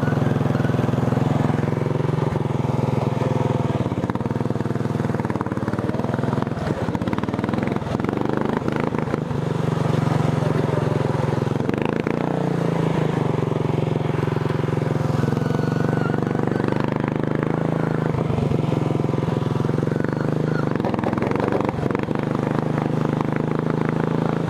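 Racing lawn tractor's engine running hard on a test ride, its pitch rising and falling several times as it speeds up and slows down.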